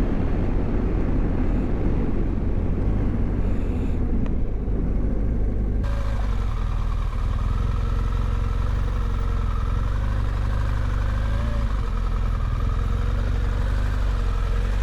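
Motorcycle engine running with wind rushing past the microphone while riding, then about six seconds in the wind noise cuts off suddenly and the engine runs on steadily at low revs.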